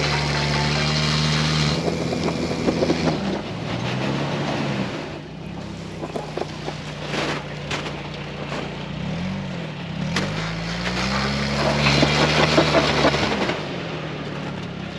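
Vehicle engine running under load in a mud recovery, its pitch dipping and rising again partway through as the throttle changes, with crackling and grinding from the wheels or tracks in the mud.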